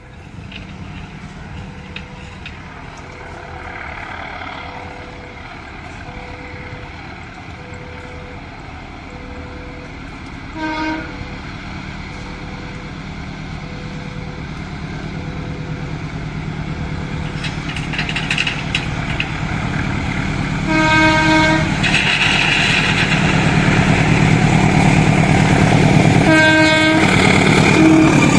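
A diesel locomotive comes toward a railway level crossing, its engine rumble growing steadily louder. It sounds its horn three times: a short toot, then two longer blasts near the end. The crossing's warning signal rings in even pulses through the first part.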